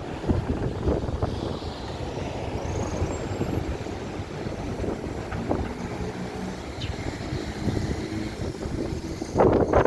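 Wind buffeting the microphone over a low, steady rumble, with a louder gust about nine and a half seconds in.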